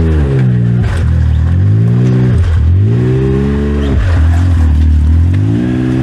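Side-by-side UTV engine, close by, revving up and easing off repeatedly as the driver works the throttle over a trail obstacle. The pitch dips about one, two and a half and four seconds in, and climbs back after each dip.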